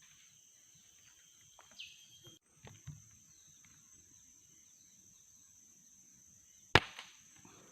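A single sharp air-rifle shot about seven seconds in, over a steady high-pitched buzz of insects, with a few faint clicks and a short chirp earlier on.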